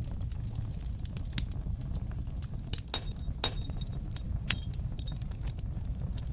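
Wood fire crackling in a fireplace: a steady low rumble of burning with scattered sharp crackles and a few louder pops, the loudest about four and a half seconds in.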